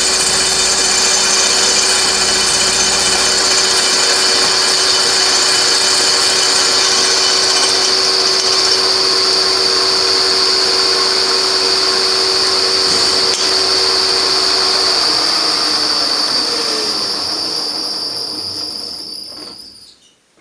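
Beaver milling machine running steadily with a milling cutter on a broken titanium wheel screw. About 15 seconds in it is switched off, and its pitch falls as it winds down and fades to silence near the end.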